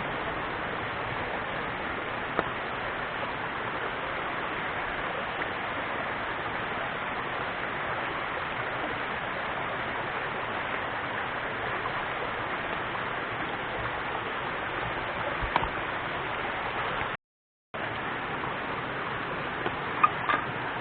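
Steady rush of flowing river water, with a few faint clicks and a brief half-second dropout about three-quarters of the way through.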